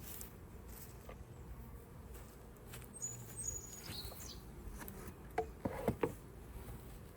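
Honeybees buzzing in a steady low hum around an opened, crowded hive. A few short clicks and knocks come near the end.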